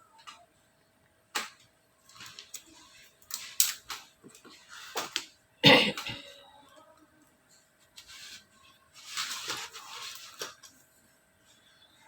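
Scattered small handling noises, sharp clicks and short rustles, with one louder knock about halfway through, over a faint steady hum.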